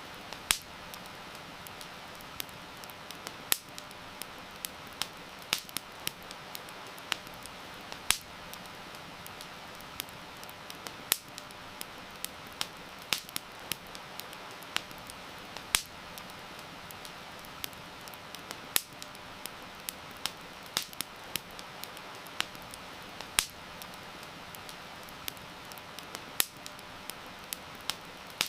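Campfire crackling, with sharp irregular pops and snaps of burning wood, several a second, over a steady hiss of heavy rain.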